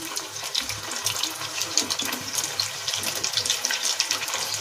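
Pieces of soya chaap deep-frying in hot oil in a kadhai: a steady sizzle with dense, fine crackling.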